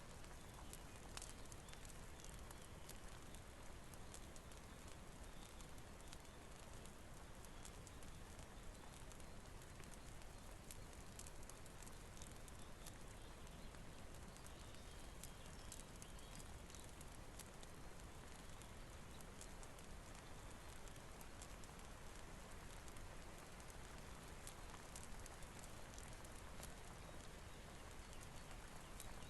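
Faint, steady rain hiss mixed with the irregular crackle and pops of a wood fire.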